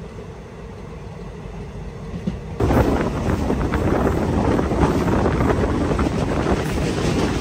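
Indian Railways express train running at speed, heard from an open coach door. A low running rumble at first, then about two and a half seconds in it jumps suddenly to a loud rush of wind on the microphone over the noise of the coaches' wheels on the rails.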